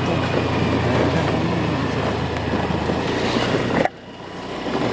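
Motorcycle running on the move, with wind rushing over the microphone. The sound cuts out abruptly about four seconds in, then swells back.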